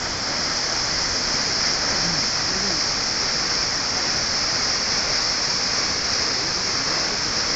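Kegon Falls waterfall: a steady, even rush of falling water.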